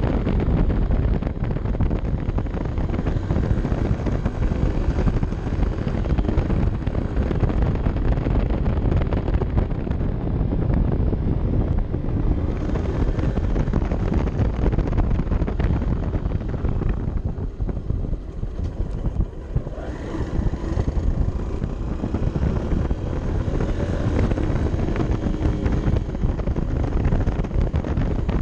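Honda CB 125 F's air-cooled single-cylinder engine running under way, heavily masked by wind buffeting on the camera microphone. It eases off about seventeen seconds in, then picks up again with a rising pitch.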